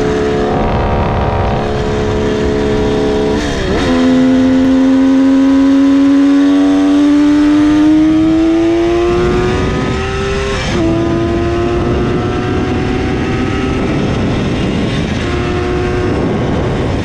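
Kawasaki H2 750 three-cylinder two-stroke on expansion-chamber exhausts accelerating at wide-open throttle, the engine note climbing steadily through each gear and dropping at upshifts about three and a half and eleven seconds in. Heavy wind rush on the microphone underneath.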